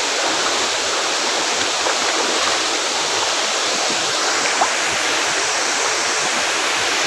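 Waterfall rushing in a steady, unbroken roar of falling water, with one brief click a little past halfway.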